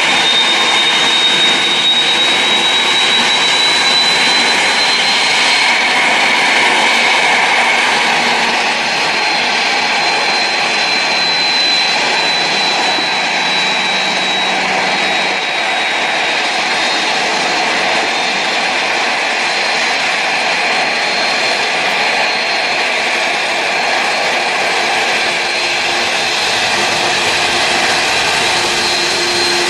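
Jet airliner engines running, a steady rush of noise with a high, thin whine over it.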